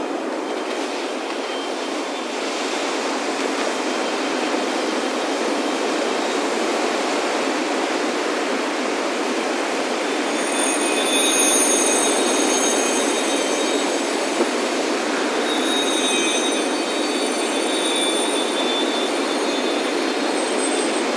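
Steady ocean surf rushing and washing on a beach, with high, thin metal wind-chime tones ringing on and off over it, most of them around the middle.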